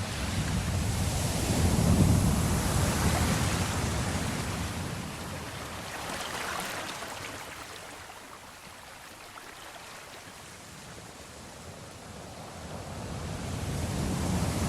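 Sea waves surging and washing in slow swells: a big one about two seconds in, a smaller one midway, then a lull before another builds near the end.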